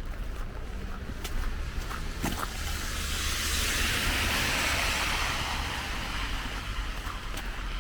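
A car passing on a wet, slushy street: its tyre hiss swells and then fades over a few seconds. Footsteps on wet pavement click in the first couple of seconds.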